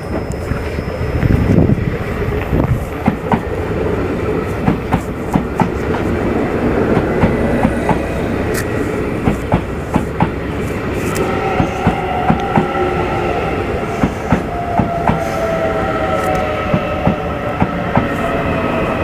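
Train running along the track, its wheels clacking over rail joints in regular quick pairs. From about eleven seconds in, a whine of several tones joins in and sinks slightly in pitch.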